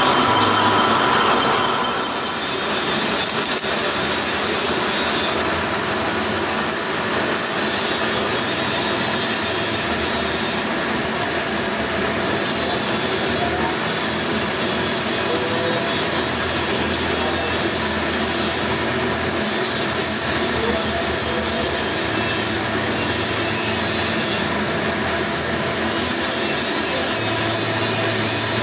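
Manual lathe running while turning the welded bearing seat of a hydraulic pump, a steady machining noise with a thin high whine that wavers slightly in pitch.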